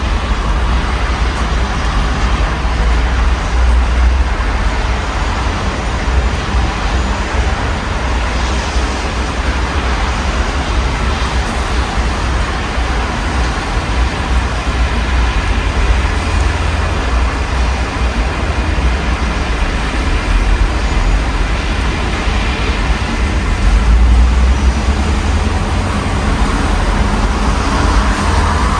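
Steady rain and city traffic heard through an open window: an even hiss of rain and wet road over a constant low rumble of passing vehicles, which swells briefly a few times as cars go by.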